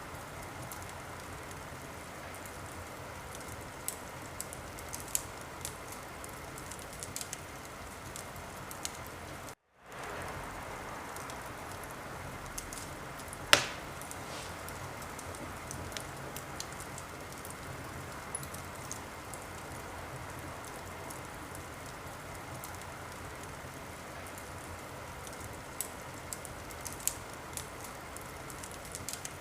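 Wood fire in a fireplace crackling: a steady hiss with scattered sharp pops, and one much louder snap about halfway through. The sound cuts out completely for a split second about ten seconds in.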